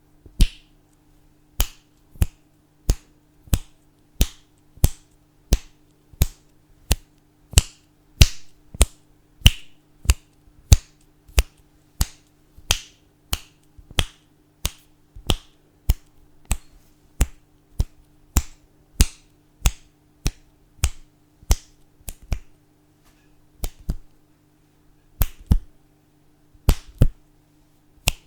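Fingers snapping at a steady pace, a little under two sharp snaps a second, growing more uneven near the end. A faint steady hum sits underneath.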